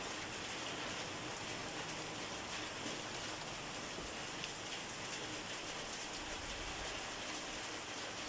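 Steady rain falling and pattering on a surface, with the fine ticks of individual drops.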